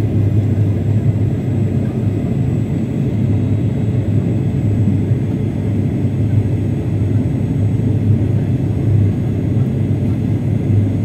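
Steady low drone of an airliner's engines and airflow, heard inside the passenger cabin in flight.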